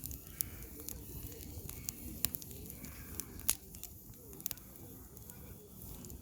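Firewood burning in a campfire, crackling and popping in irregular sharp snaps, with a louder pop about three and a half seconds in, over a low steady rumble of the flames.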